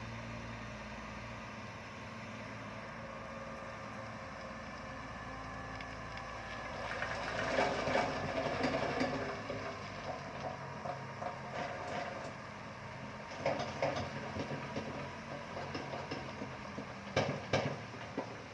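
Shantui crawler bulldozer at work, its diesel engine running steadily. About seven seconds in, a louder stretch of metallic clattering from the machine begins, and sharp clanks follow later, the strongest near the end.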